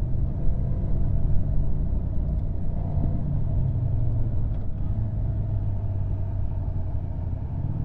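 Motorcycle on the move at a steady pace: an even, low engine and road rumble with no change in revs.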